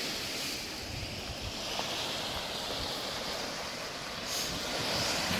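Lake Superior waves washing and breaking on the shore, a steady rushing surf that swells up near the end.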